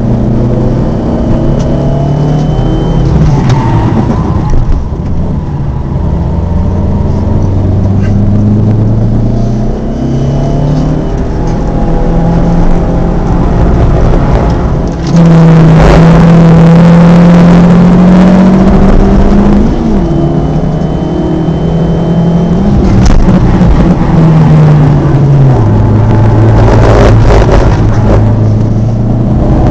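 Alfa Romeo MiTo 1.4 TJet turbo four-cylinder engine, heard from inside the cabin under hard track driving. Its pitch climbs and falls back repeatedly with gear changes and lifting for corners. It is loudest and highest from about halfway through.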